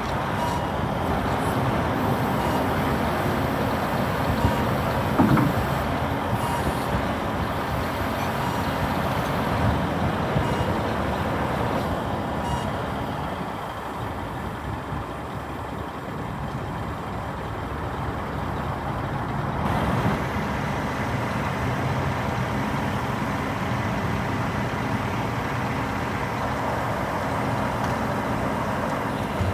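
Scania R480 crane truck's diesel engine running steadily, with a short rise in pitch about five seconds in.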